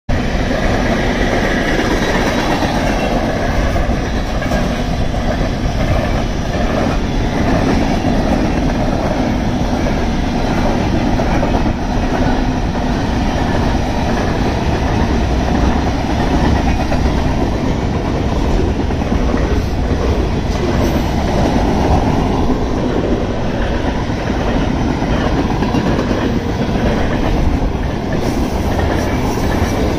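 Freight train cars rolling past at steady speed: a continuous rumble of steel wheels on the rails, with the clickety-clack of wheels over rail joints and a few scattered clicks.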